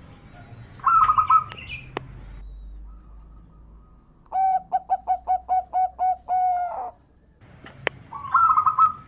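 Zebra dove (perkutut) cooing: a rapid run of about nine short, even coos in the middle. Short trilled calls come about a second in and again near the end, with two faint clicks between.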